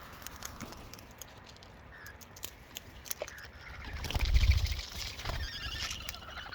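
Wild parrots feeding at close range: scattered small beak clicks and taps, and a burst of high chattering bird calls around four to six seconds in. A loud low rumble on the microphone comes about four seconds in.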